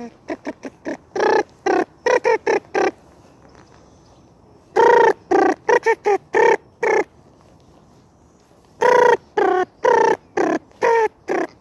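Chicken clucking in three bursts of short, rapid, pitched calls, a few seconds apart.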